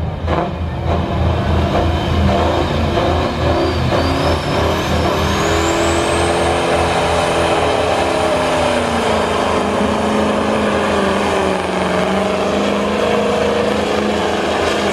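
Diesel semi truck engine running hard under load while pulling the weight sled. A high whistle rises about a third of the way in and then holds, and the engine note sags a little past the middle as it labours.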